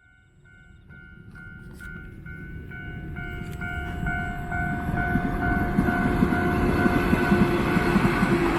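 Shinano Railway 115-series electric train approaching, its rumble growing louder until it is steady from about halfway in. A pulsing, bell-like tone repeats about twice a second through the first two-thirds.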